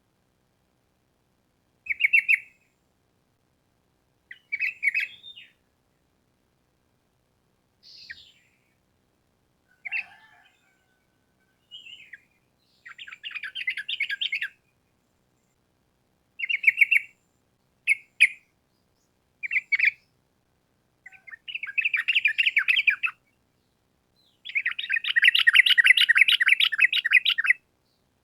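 Yellow-vented bulbul (trucukan) calling: short bubbly chattering phrases with gaps between them, building to longer rapid rolling chatters, the longest lasting about three seconds near the end.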